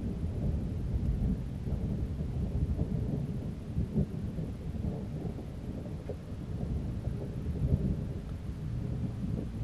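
Thunder rumbling on and on in a low, uneven roll, swelling about four seconds in and again near eight seconds.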